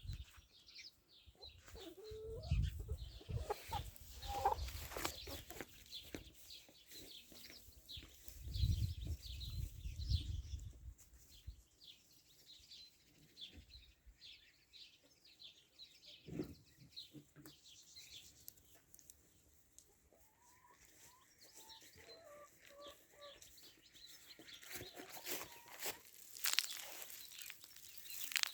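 A flock of free-range chickens clucking and calling, with many short high chirps throughout. Low rumbling noise comes twice in the first half, like wind or handling on the microphone.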